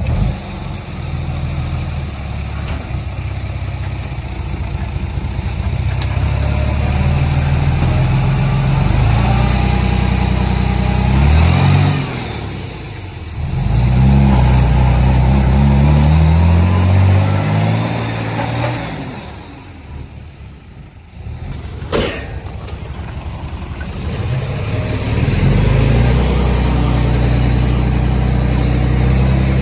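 Heavy diesel engine of earthmoving machinery revving up and down as it works, easing off twice before building up again. There is a single sharp knock about two-thirds of the way through.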